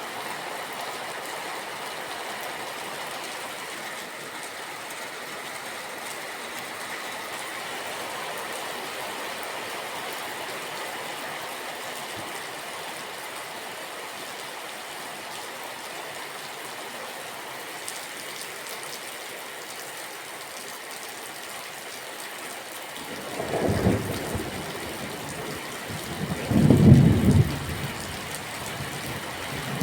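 Steady rain falling, then from about three-quarters of the way in, rolling thunder rumbles in low surges, the loudest a few seconds before the end.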